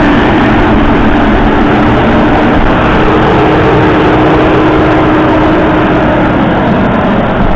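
Claas Arion 650's 6.8-litre six-cylinder diesel engine running loud and steady, with a steady whine that fades out about six seconds in.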